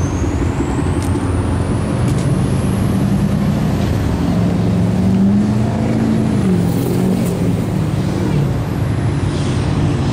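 Steady, loud rumble of car engines running, with one engine's note rising and then dropping about five to seven seconds in, as a vehicle revs or passes.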